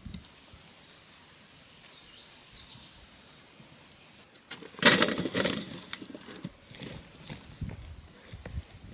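Birds chirping in short high calls, with a loud noisy burst about five seconds in and a few softer knocks after it.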